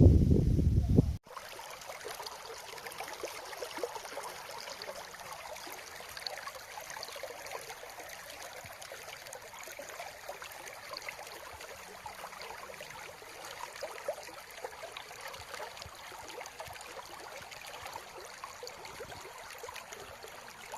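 Wind buffeting the microphone for about the first second, then an abrupt cut to the steady rush of a mountain stream running over rocks.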